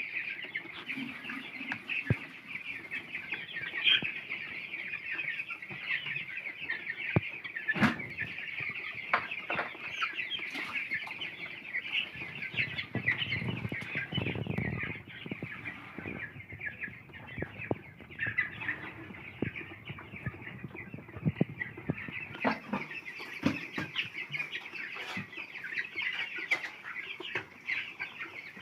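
A large flock of chickens clucking and chattering continuously, with scattered sharp clicks and knocks among them.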